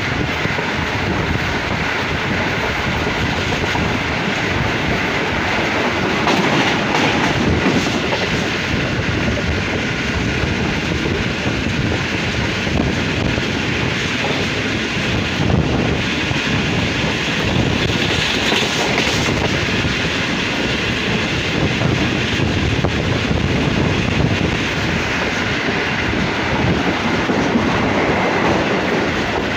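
Passenger train running at speed: a steady rumble and clatter of coach wheels on the rails, heard from an open window of the moving coach, swelling briefly a couple of times.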